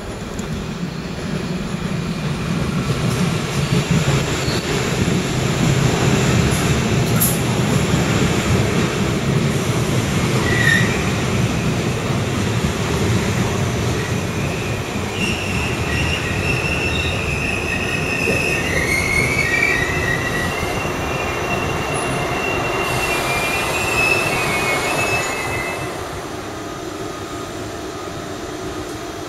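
An ICE 2 high-speed train rolls into the station. The low rumble of its wheels on the track builds for the first several seconds, then high, wavering squeals come in as it slows along the platform. About three seconds before the end the sound drops to a quieter, steady hum.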